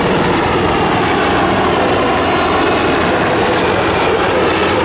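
Loud, steady aircraft engine noise.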